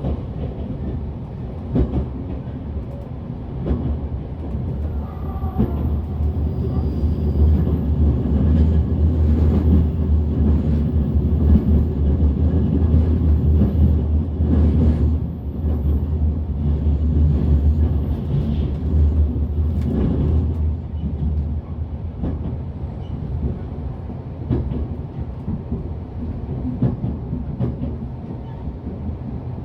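Running noise inside a JR Central 383 series electric train car: a steady low rumble of wheels on rails with regular rail-joint clicks. It grows louder through the middle and eases off near the end.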